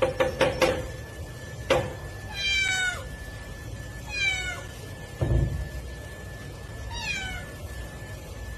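A cat meowing three times, each meow short and falling in pitch, with a dull thump between the second and third. A rapid run of pulsed tones fades out in the first second.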